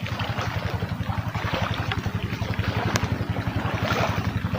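A passing motorboat's engine running steadily with a rapid, even low chug, over a hiss of rain.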